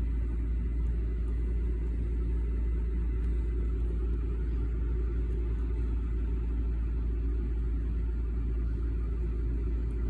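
Car engine idling steadily just after a cold start, a low, even rumble with no change in speed.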